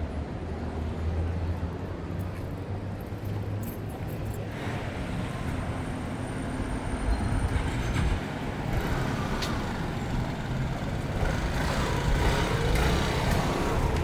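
City street traffic: motor vehicles running and passing with a low rumble, the general street noise growing fuller about four or five seconds in.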